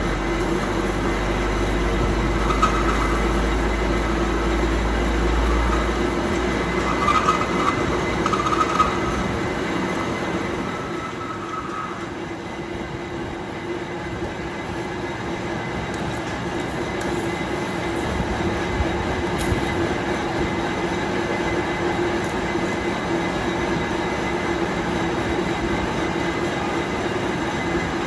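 Workshop machinery running steadily with a constant hum, and a higher squealing tone that comes and goes during the first half.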